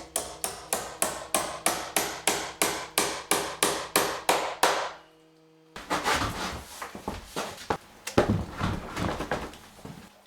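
Steel hammer driving nails through a hinge into a wooden door, a steady run of sharp blows about three a second for some five seconds. After a short gap come irregular knocks and handling noise, loudest about eight seconds in.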